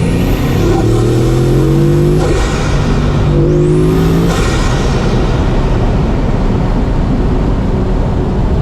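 Bugatti Mistral's 8.0-litre quad-turbocharged W16 engine accelerating hard, its note climbing through two gears with upshifts about two and four seconds in. Each pull carries a high rushing sound that sweeps up and falls away, and after the second shift the engine settles into a steadier drone.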